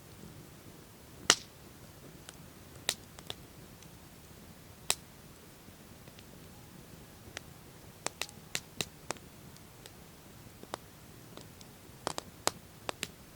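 Campfire crackling: irregular sharp pops and snaps of burning wood over a faint low hiss. A single loud pop comes about a second in, and quick runs of smaller pops follow in the second half.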